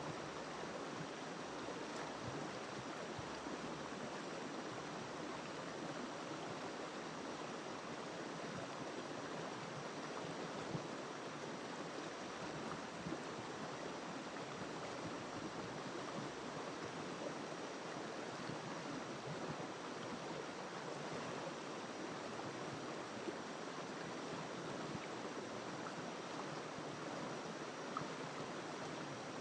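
River water flowing steadily over rocks, an even rushing that does not change.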